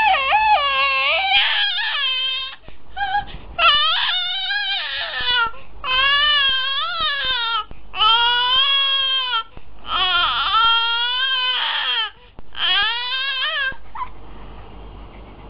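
Five-month-old baby crying out in a string of long, high, wavering cries one after another, stopping about two seconds before the end.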